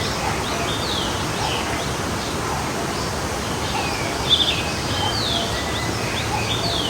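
Forest stream flowing steadily while songbirds chirp and sing, many short rising and falling notes, with a brief louder burst of chirps about four seconds in.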